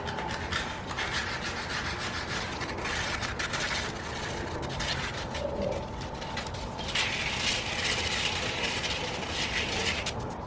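150-grit sandpaper rubbing over the bare aluminum of a curb-rashed wheel rim, scuffing off surface corrosion and leaving a rough surface for Bondo to grip. The scratchy hiss comes in long strokes, louder for a few seconds about a second in and again from about seven seconds in.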